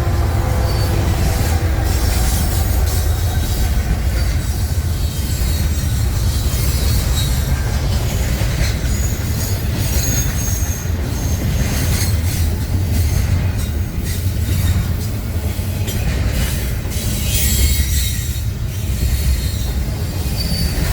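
Freight train cars rolling past with a steady heavy rumble, wheels squealing against the rail in short high streaks about halfway through and again near the end, with occasional clacks over the rail joints.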